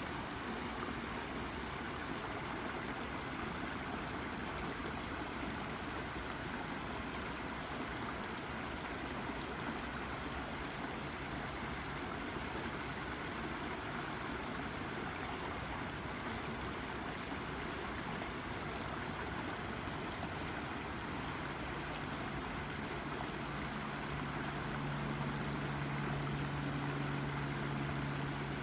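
Shallow brook water running and babbling steadily over a rock. About two-thirds of the way in, a low steady hum joins it, a little louder near the end.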